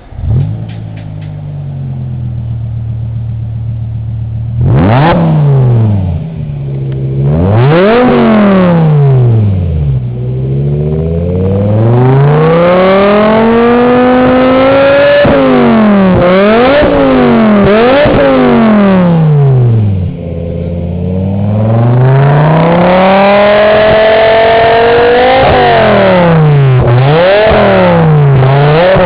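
BMW E60 M5's V10 engine through an aftermarket HE'ART exhaust system, firing up and idling for a few seconds, then revved over and over: quick sharp blips alternating with slower climbs in pitch that fall back to idle.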